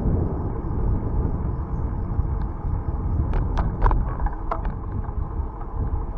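Low, steady rumble of wind on the microphone and tyre noise from a moving bicycle. A few short, sharp clicks come in a quick cluster a little after halfway.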